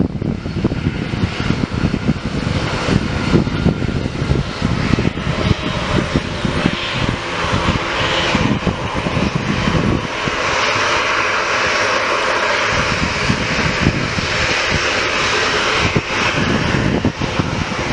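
Fixed-wing airplane's engines running close by, growing louder and fuller about halfway through, with gusts of wind buffeting the microphone early on.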